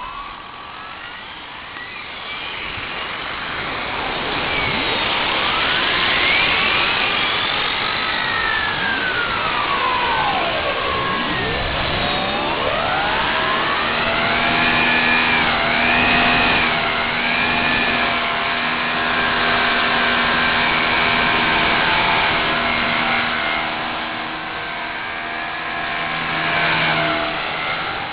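Align T-Rex 250 SE radio-controlled helicopter flying, its electric motor and rotor whining. The whine sweeps up and down in pitch during the first half and holds steadier tones later, over a steady hiss of wind and rain.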